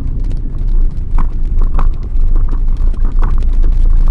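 Car moving, heard from inside the cabin: a loud, steady low rumble of engine and road with scattered short ticks.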